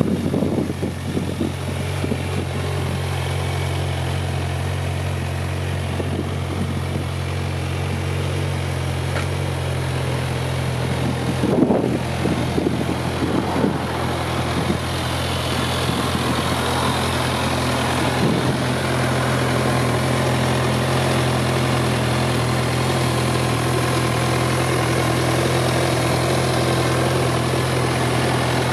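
Kawasaki Z1000 SX's inline-four engine idling steadily, with a brief knock about twelve seconds in.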